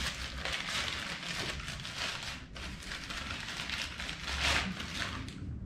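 Packaging being unwrapped by hand: an uneven rustling and crinkling with many small crackles, dying down near the end.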